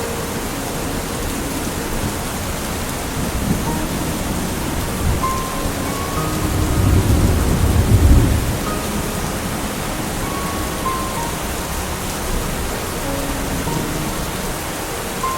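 Steady rain falling, with a low roll of thunder that builds about six seconds in, peaks around eight seconds and fades away.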